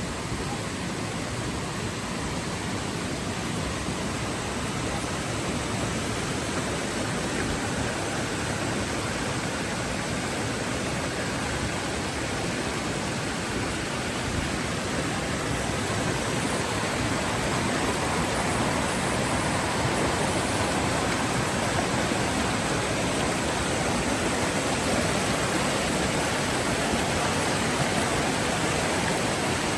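Steady rainfall, an even hiss of rain that grows a little louder past the middle.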